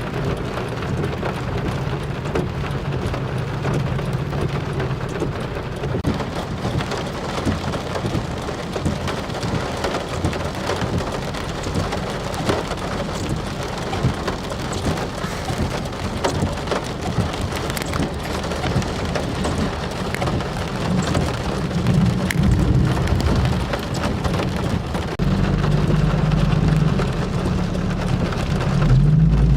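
Heavy rain pouring down in a severe thunderstorm, with a low rumble underneath that grows louder in the last few seconds.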